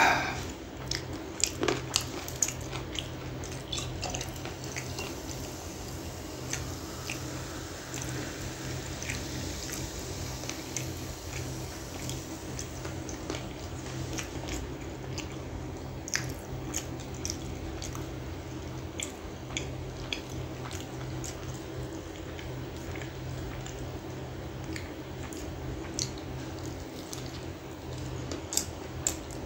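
Close-miked eating sounds: wet chewing clicks and smacks from a closed mouth, scattered through, with a few louder clicks in the first few seconds, over a steady low hum.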